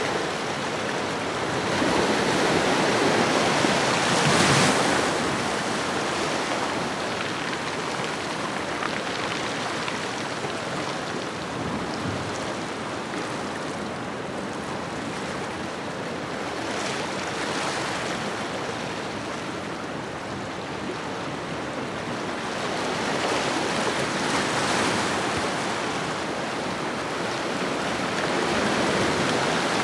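Ocean waves washing on a shoreline: a steady rushing surf that swells as waves break, about a second or two in, again in the middle, and twice near the end.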